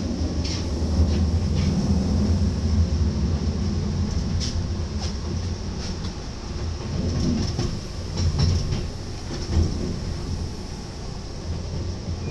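Running noise of an NS ICMm (Koploper) electric multiple unit heard from inside the door vestibule: a steady low rumble with scattered clicks and knocks from the wheels and car body.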